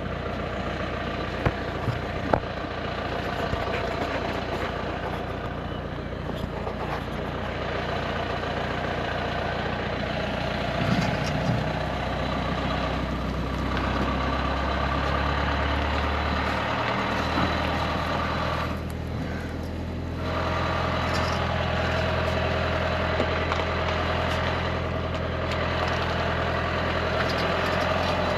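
An engine running steadily at low speed, shifting in pitch about two-thirds of the way through, with a few sharp clicks in the first seconds.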